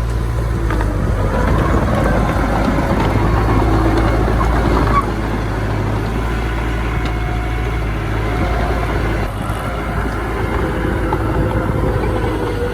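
Heavy diesel earthmoving machinery running steadily under load, with wavering higher tones over the low engine sound; it shifts in level about five seconds in and again near nine seconds.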